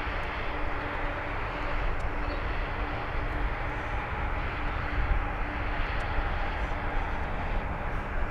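Jet engines of a Boeing 787-9 on landing approach, a steady broad jet noise with a deep rumble underneath and a faint steady hum in the first few seconds. The engines are Rolls-Royce Trent 1000s.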